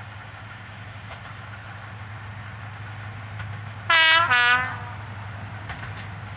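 Preserved diesel locomotive's two-tone horn sounding a short high note then a lower one about four seconds in, over the steady drone of a diesel engine running.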